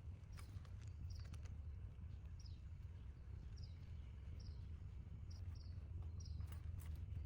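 Short, slightly falling high chirps of a small bird, repeating about once a second at uneven spacing, over a faint steady low rumble.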